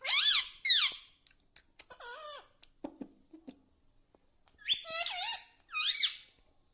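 Ring-necked parakeet giving short, high squawks that bend up and down in pitch: two loud ones at the start, one about two seconds in, and two more near the end.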